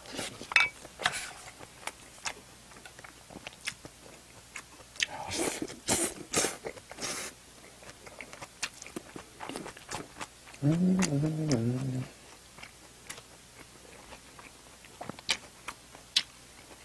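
Close-miked chewing and wet lip-smacking of spicy stir-fried pork, a string of short clicks and smacks with a louder run of bites about five to seven seconds in. About eleven seconds in comes a brief hummed "mmm" with the mouth full.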